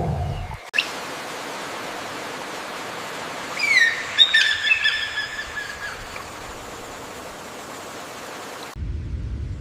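A bird calling a few times, short whistled notes that drop in pitch and then hold, over a steady outdoor hiss.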